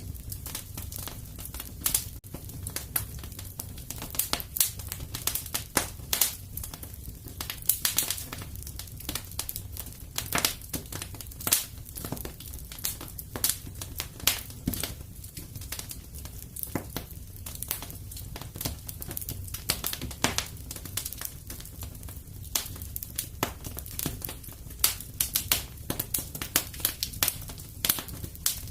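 Wood fire burning in a fireplace: frequent irregular crackles and sharp pops over a steady low rumble of the flames.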